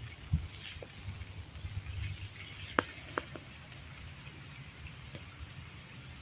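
Campfire crackling, with a few sharp, scattered pops over a low rumble.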